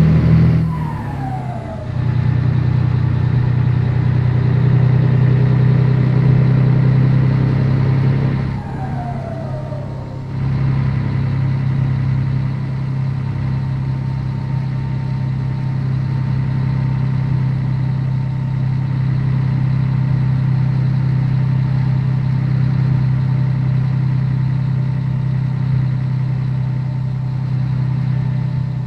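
Scania 113 truck's diesel engine running steadily under load. Twice, about a second in and about nine seconds in, the engine note briefly drops and falls in pitch, then pulls again: gear changes on the move.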